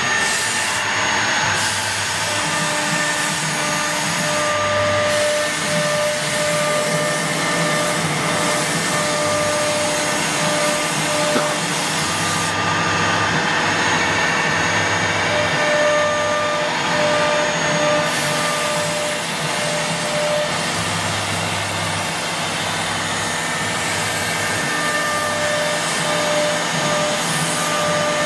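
CNC wood router running steadily: a constant high-speed spindle and cutting noise, with thin whining tones that switch on and off every few seconds as the machine moves.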